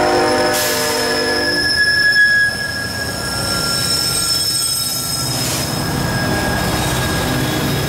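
A locomotive's multi-note air horn sounds and cuts off about a second and a half in. Underneath is the rumble of a passing train, with a steady high-pitched wheel squeal running through.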